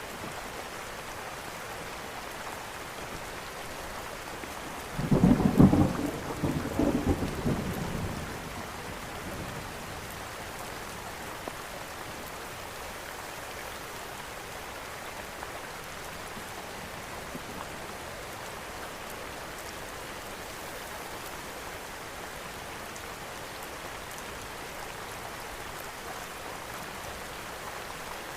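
Steady rain falling, with one rumble of thunder about five seconds in that swells and dies away over about three seconds.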